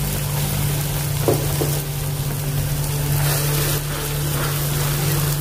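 Urad dal and grated potato batter sizzling steadily in hot oil in a pan as it fries, with a low steady hum underneath and a few faint light clicks.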